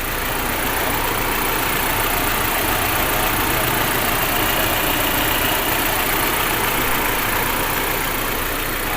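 Audi A4 engine running at idle, a steady mechanical noise, while misfiring on a cylinder.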